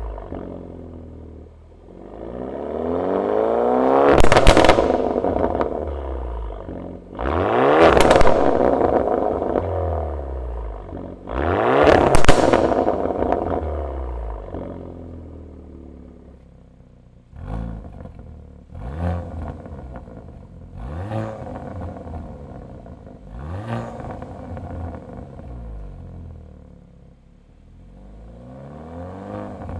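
Hyundai N car's turbocharged four-cylinder engine revved through an aftermarket cat-back exhaust: three long revs that climb and fall away with sharp cracks near the top of each, then a run of about five short quick blips.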